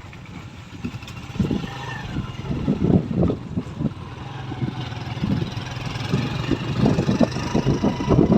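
A motor vehicle engine running, with uneven low rumbling that grows louder about a second and a half in.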